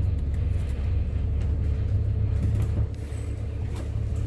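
Bus engine running with a steady low rumble, heard from inside the bus while it waits in traffic.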